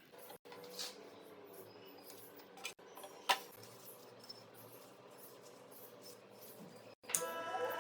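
A few faint clicks and taps of metal parts being handled, then near the end an electric power tool starts up, its motor beginning to rise in pitch.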